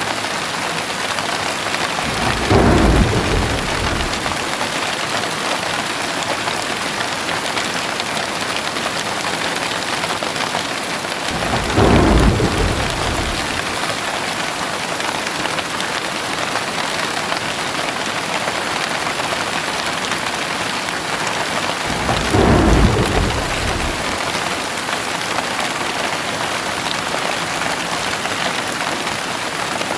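Heavy rain falling steadily, with three short, low rolls of thunder about ten seconds apart.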